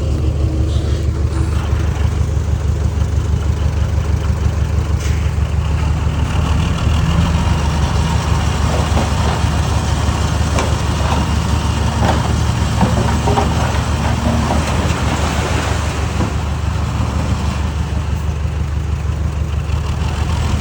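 Heavy diesel engine of earth-moving machinery running steadily, with a few scattered knocks in the middle.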